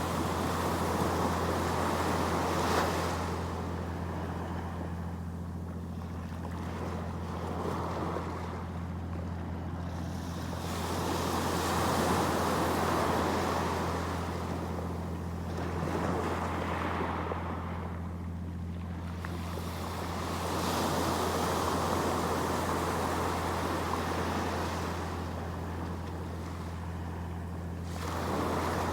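Sea waves washing in and drawing back, swelling about every eight to nine seconds, over a steady low hum.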